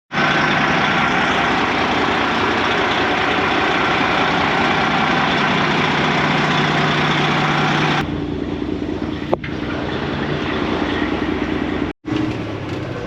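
Freightliner semi-truck's Detroit diesel engine running loud for the first eight seconds, then cutting abruptly to a lower, quieter running sound with a sharp click about a second later, and a brief dropout near the end.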